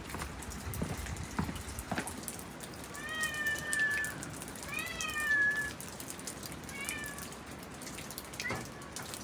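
A cat meowing about four times, the first two calls longest and each gliding slightly in pitch.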